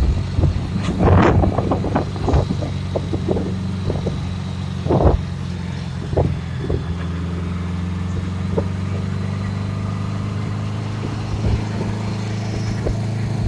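Small motorcycle engine running at a steady pitch, with scattered knocks and clatters through the first half, the loudest about five seconds in.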